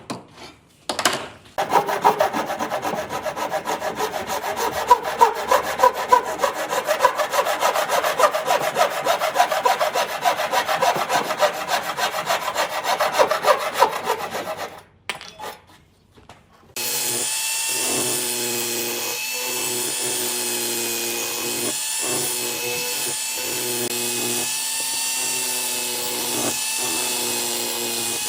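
Wood being worked with a fast, even rasping, sawing sound for about thirteen seconds. After a brief pause, a power tool motor starts and runs steadily with a pitched whine.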